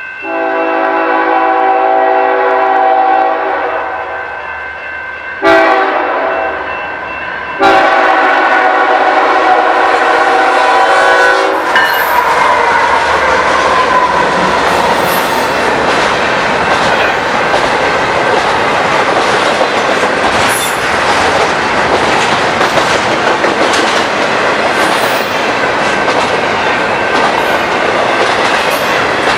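Passing train's multi-chime horn sounding in several blasts as it approaches the grade crossing, the last blast held for about four seconds. The loud rumble of the train passing close by follows, with steel wheels clicking over the rail joints and crossing.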